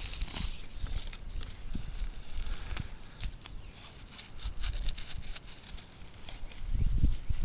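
Rustling and crackling of plants and dry leaves being handled, with a low rumble on the microphone that swells near the start and again near the end.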